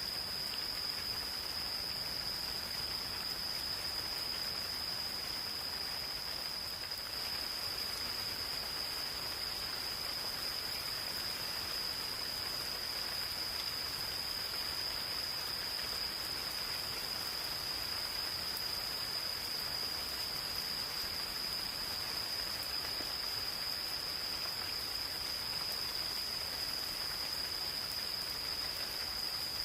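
Gentle rain falling steadily in a forest, with a steady high-pitched insect trill held at one pitch above it.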